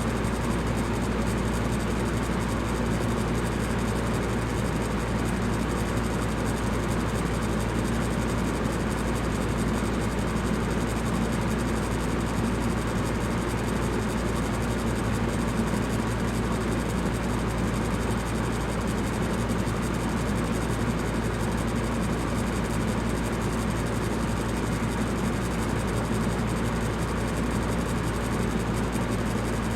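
Electric fan running steadily: an even whooshing rush of moving air with a low hum underneath.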